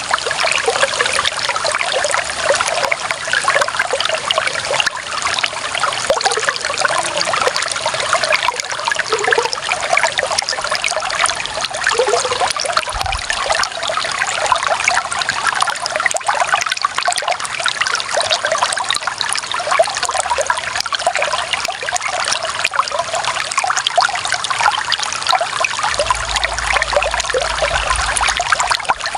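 Clear water running and trickling steadily over stones, a continuous busy babble of small splashes.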